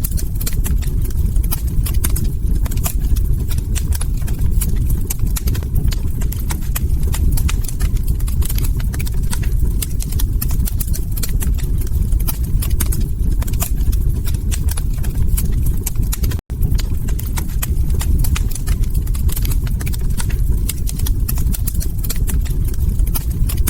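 Log fire crackling: a steady low rumble of burning under frequent sharp pops and snaps. The sound cuts out for an instant about two-thirds of the way through.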